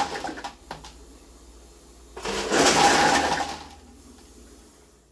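Hoshizaki KM-660MRJ ice machine in its first harvest cycle: two bursts of rushing noise, the second about two seconds in and lasting about a second and a half, over a low steady hum.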